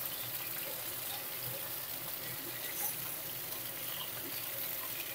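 Pointed gourd and potato slices frying in hot mustard oil in an aluminium kadai: a steady sizzle, stirred and tossed with a slotted metal spatula.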